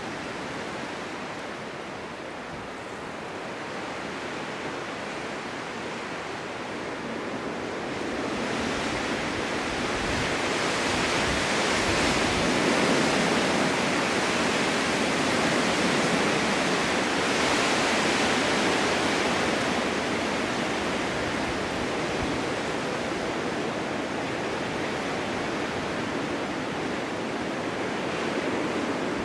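Strong winter wind blowing in gusts with a rushing hiss, building from about eight seconds in to a peak and then easing off slightly.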